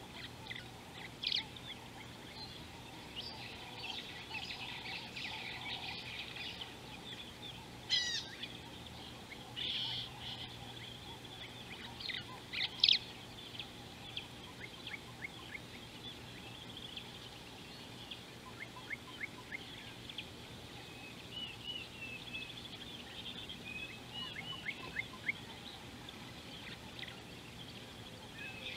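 Birds chirping and trilling, with a few louder calls about 1, 8 and 13 seconds in, over faint steady background noise.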